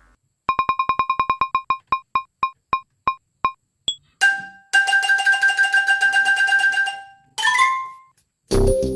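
A string of electronic sound effects: about eighteen short beeps on one pitch that come further and further apart, a click, then a held, rapidly pulsing two-note tone and a short rising chirp. Keyboard music starts near the end.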